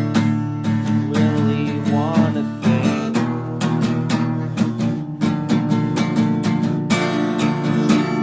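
Instrumental rock music: rhythmic strummed guitar chords, with a short bending melody line about two seconds in.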